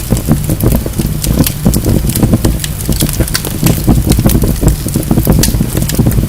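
Wood fire burning in a fireplace, logs crackling and popping with many irregular sharp snaps over a steady low rumble of the flames.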